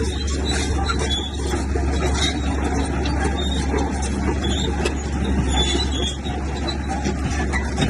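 Komatsu bulldozer's diesel engine running steadily under work, with scattered light rattles and clicks over it.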